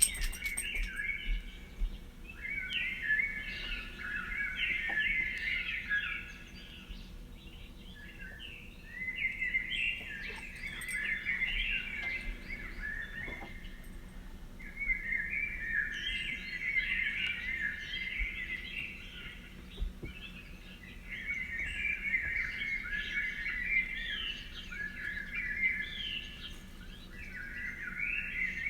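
A songbird singing long, jumbled, chirping warbles in phrases of a few seconds each, with short pauses between phrases.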